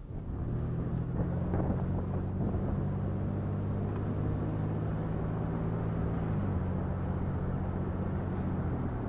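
Vehicle engine running steadily at an even low pitch, which shifts slightly about six seconds in.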